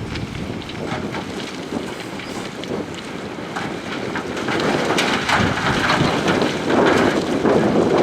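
Loose rock and gravel clattering and grinding as heavy earthmoving machinery moves it, with many small cracks and knocks. It grows louder about halfway through, with wind noise on the microphone.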